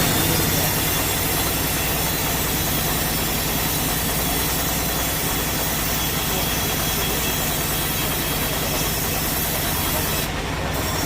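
Sawmill saw cutting through a large log: a steady hiss over the low, even hum of the mill's machinery. The hiss drops away near the end while the hum runs on.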